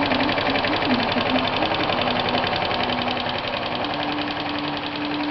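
125 cc moped engine running steadily at idle on HHO gas, with its rapid, even firing pulses.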